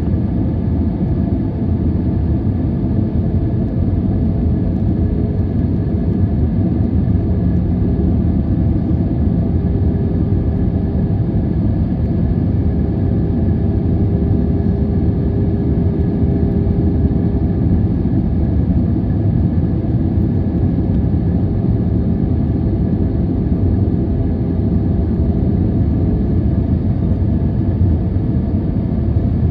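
Boeing 737-800's CFM56-7B jet engines and airflow: a loud, steady rumble with faint steady whine tones above it, unchanging throughout.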